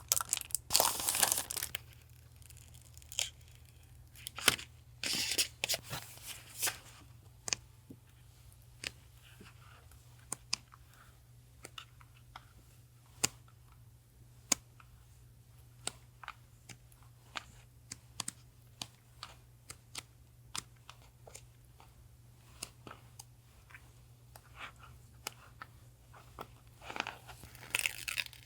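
Packaging being torn open, in a noisy rip in the first two seconds and again near the end, with scattered light taps and clicks of items being handled in between.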